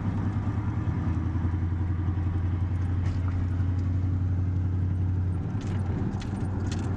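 Pickup truck's engine running at a steady low drone, easing off slightly near the end, with a few light clicks.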